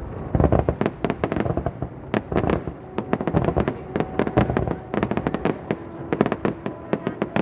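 Fireworks display going off: a dense, irregular run of sharp bangs and crackles, several a second.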